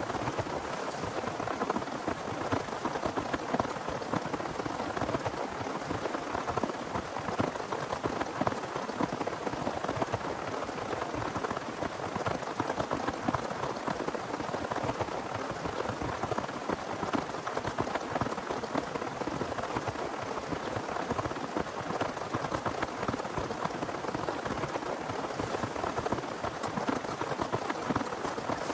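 Heavy rain falling steadily: a dense, even patter of countless drops that does not let up.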